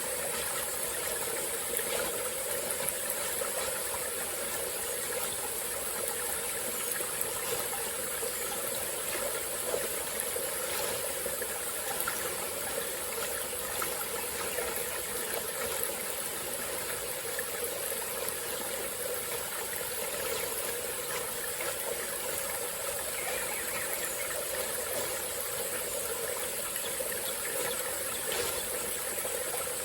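Small forest stream flowing and trickling steadily, with a steady high-pitched hiss above the water.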